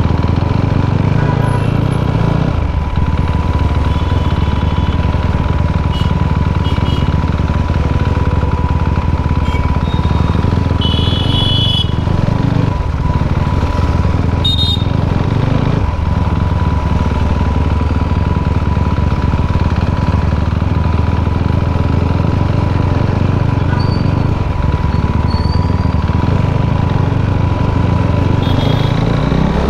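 KTM RC 390's single-cylinder engine running through an Akrapovič exhaust while riding at a fairly steady pace, heard from the rider's helmet.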